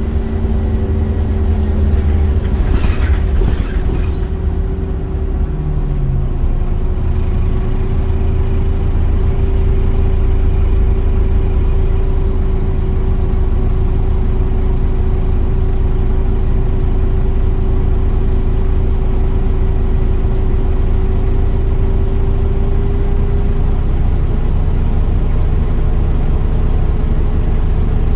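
Scania Omnicity single-deck bus's diesel engine running as the bus is driven, with a steady whine that stops a few seconds before the end. A few brief sharper sounds come in the first few seconds.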